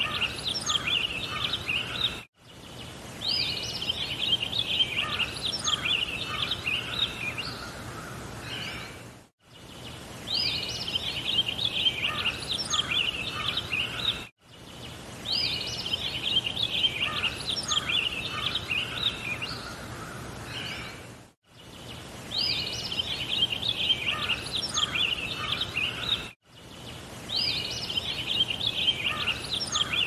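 Birdsong: birds chirping and twittering over a steady background hiss. The recording cuts out briefly every five to seven seconds, and the same stretch of song repeats after each gap.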